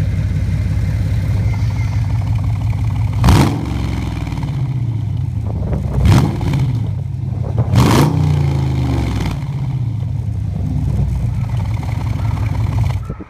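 Dodge Challenger SRT8's Hemi V8 exhaust idling, with three quick throttle blips a few seconds apart, each revving up sharply and falling back to idle.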